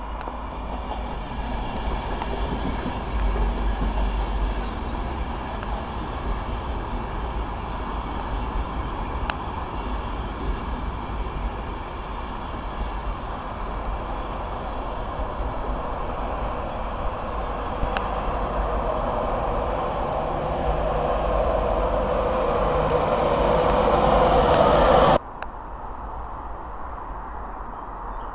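Virgin Trains East Coast InterCity 225 (Class 91 electric locomotive with Mk4 coaches) running past: a steady rumble and rush of wheels on rail with a few sharp clicks. It grows louder toward the end and cuts off suddenly about 25 seconds in.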